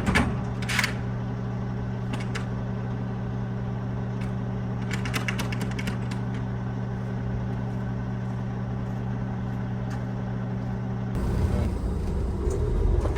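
A semi truck's diesel engine idling steadily, with a few light clicks over it. About eleven seconds in, the sound changes abruptly to a louder, rougher low noise.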